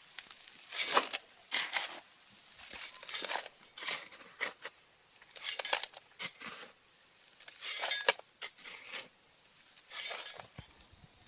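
Hard objects clinking and scraping in an irregular series of sharp strokes, about one a second, typical of stones and hand tools being worked. A high steady whine comes and goes behind them.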